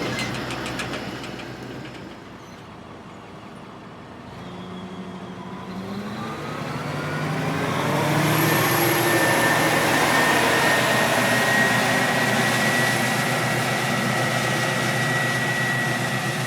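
A tractor's diesel engine, low for a couple of seconds, then rising in pitch and loudness as it works up from about four seconds in. It settles to a steady run with a thin high whine from about eight seconds.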